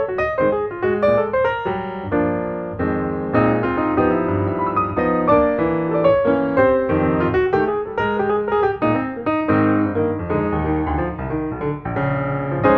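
Background piano music, a quick run of notes over sustained chords.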